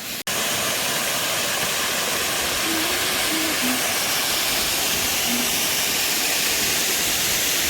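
Waterfall running: a steady, loud rush of falling water heard close to the falls.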